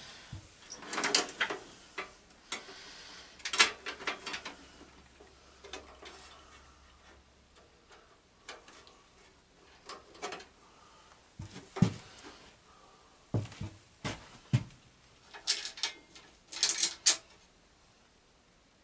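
Scattered knocks, clanks and short rattles of metal parts and tools being handled, with quiet gaps between them and a quick cluster of rattles near the end.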